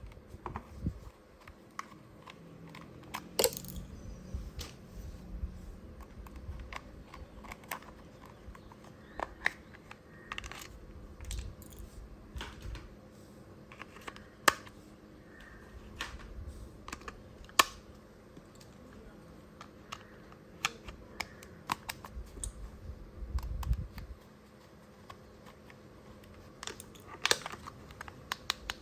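Irregular clicks and taps of hard plastic toy parts being handled, some sharper than others, over a faint steady hum.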